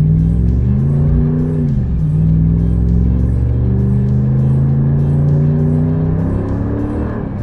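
The Ram 1500's 5.7 L HEMI V8, with its resonator deleted and an aftermarket muffler, pulling under full throttle. The engine pitch climbs, drops at an upshift about two seconds in, then rises steadily again until another upshift near the end.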